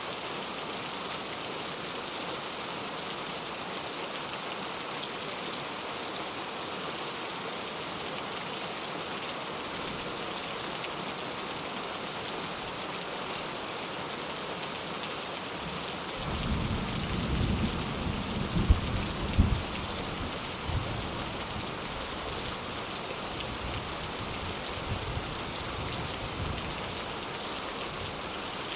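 Steady rain falling in an even hiss. About halfway through, a low rumble of thunder rolls in with a few sharper cracks and then fades away over several seconds.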